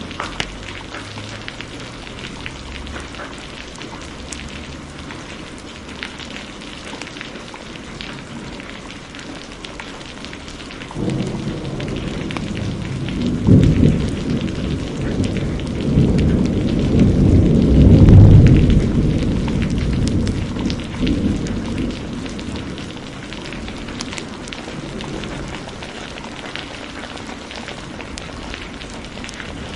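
Steady heavy rain with the sharp crackles of a fireplace scattered through it. About a third of the way in, a long roll of thunder rumbles up, peaks twice in the middle, and dies away over several seconds.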